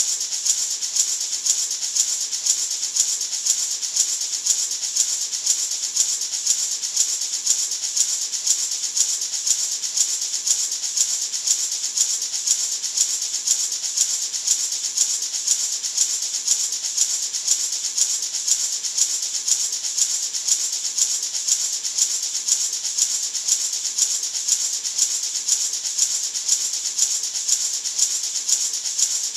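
Gourd maraca shaken steadily in an even rhythm of about two shakes a second, giving a bright, continuous rattling hiss.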